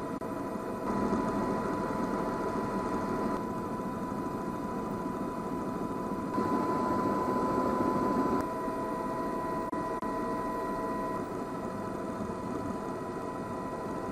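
A steady mechanical drone with a few constant tones in it, getting suddenly louder or softer several times.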